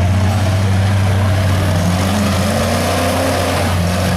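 A vehicle engine running steadily with a deep hum, its pitch climbing slowly from about halfway through.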